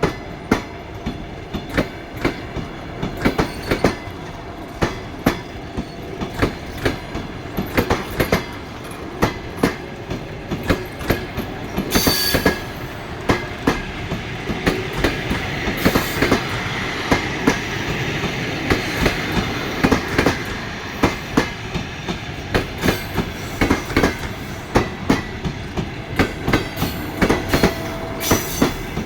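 Departing passenger train, its steel wheels clacking over rail joints in a steady run of sharp knocks. A higher hiss and squeal rise in the middle stretch.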